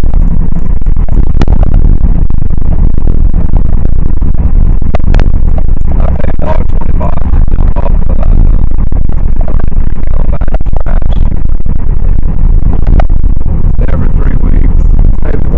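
Loud, steady road and wind rumble inside a moving car, overloading the microphone so that little else can be made out.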